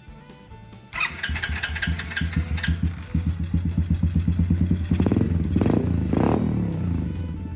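YCF 88 pit bike's small single-cylinder four-stroke engine started about a second in, running on choke. It is blipped up twice in the middle, then settles to a steady fast idle. This is the first start after its gummed-up carburetor was cleaned, and it runs.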